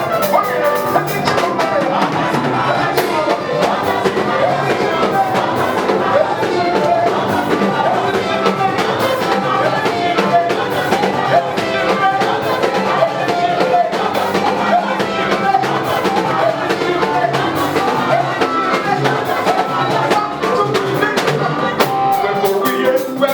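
Live gospel praise music with a band and drum kit playing steadily.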